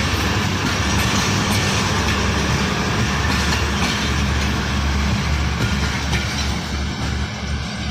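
Passenger train rolling past close by: a steady loud rumble and rail noise with occasional wheel clacks, easing slightly near the end.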